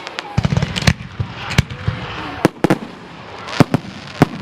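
Fireworks display going off: about seven sharp bangs at uneven intervals, with a low rumble near the start.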